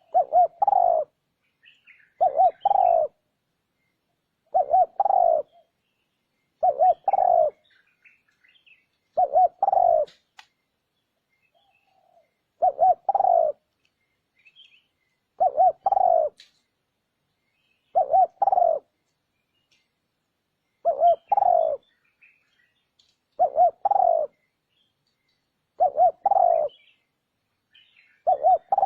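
Spotted dove cooing: a short phrase of two or three low coos, repeated about every two and a half seconds. Faint higher chirps from other birds sound between the phrases.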